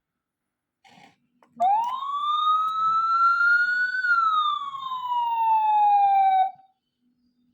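Toy police motorcycle's electronic siren sounding one wail: it rises in pitch for about two seconds, then falls and cuts off abruptly. A short click comes just before it starts.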